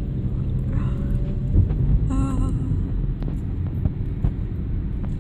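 Steady low road rumble of a moving car, heard from inside the cabin. A short pitched sound comes about two seconds in.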